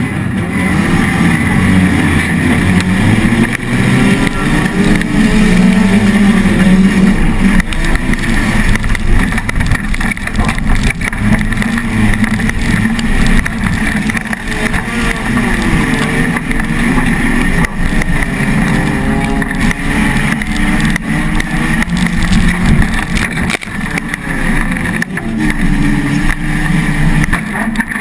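Opel Corsa race car's engine heard from inside its stripped, bare-metal cabin, revving hard on a dirt autocross track, its pitch rising and falling over and over with throttle and gear changes.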